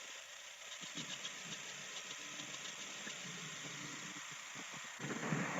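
A 1998 Mazda 626's 2.0-litre four-cylinder engine idling roughly, with light rattling, and getting louder about five seconds in. The rough idle comes with ignition timing retarded to about 0–2°, well below the 6–18° spec.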